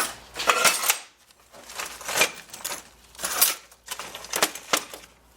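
Metal objects clinking and clattering: several irregular knocks and rattles of hard metal pieces being handled.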